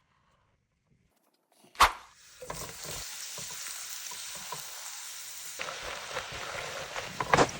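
Food frying in a hot pan: a sharp knock about two seconds in, then steady sizzling with scattered clicks and a couple of louder knocks near the end.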